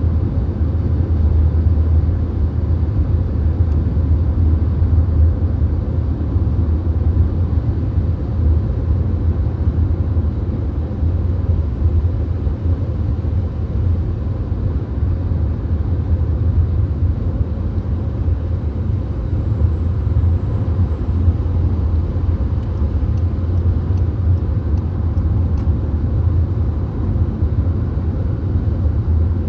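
VW Golf cruising at highway speed, heard from inside the cabin: a steady low rumble of tyre, road and wind noise that does not change.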